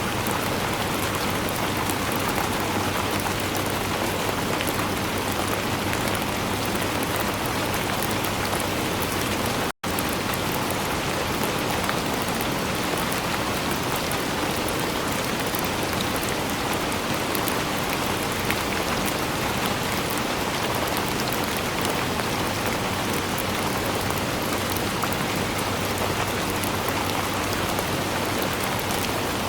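Steady rainfall, an even hiss of rain on surfaces. It is broken by a split-second dropout to silence about ten seconds in.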